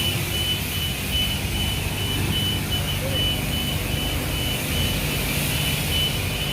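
Self-service car wash bay: a pressure washer spraying with its pump running, over a short high electronic beep that repeats about twice a second.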